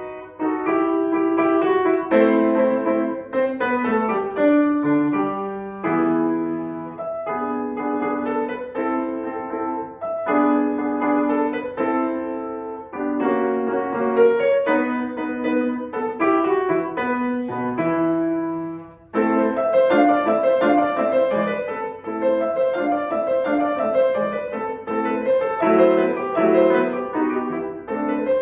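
Acoustic piano playing a classical piece in short phrases of separate notes; the music breaks off for a moment about two-thirds of the way through and resumes with a fuller, busier passage.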